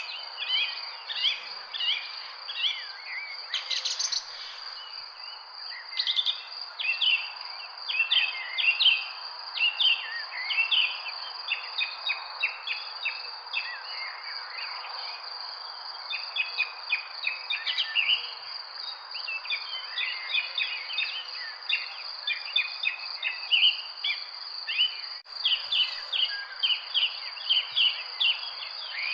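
Many small birds chirping and singing in quick, overlapping short notes, over a continuous high-pitched insect drone and a soft background hiss.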